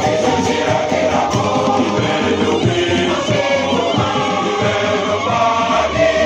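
Choir singing a hymn over music with a steady beat.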